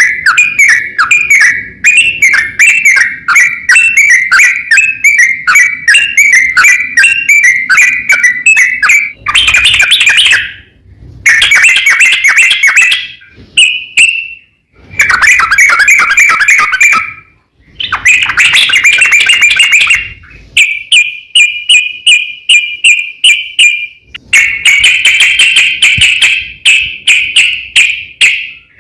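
Sooty-headed bulbul (trucukan) song: long, rapid runs of repeated chattering notes, loud and close. The runs break off into a few abrupt short silences and start again.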